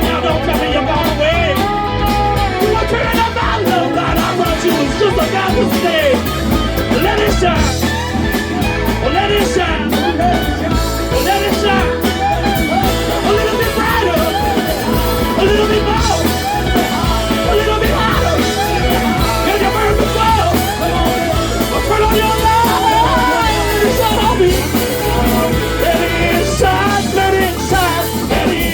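Live rock band playing a loud, steady blues-rock jam, with a bending lead line over a driving drum and bass groove.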